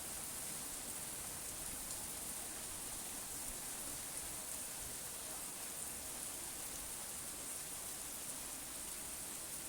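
Steady rain falling, an even hiss with faint ticks of single drops; no thunder.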